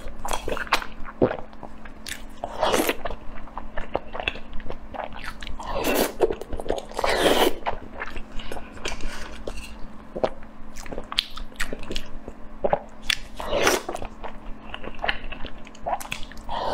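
A person chewing and biting grilled eel close to the microphone: a run of wet mouth clicks and smacks, with several louder bites.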